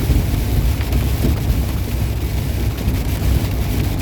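Inside a semi truck's cab at highway speed in the rain: a steady low drone of engine and road with an even hiss of rain over it.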